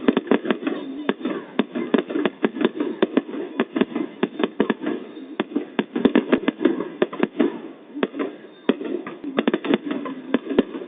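Fireworks going off in a dense, irregular run of sharp bangs and cracks, several a second with brief lulls.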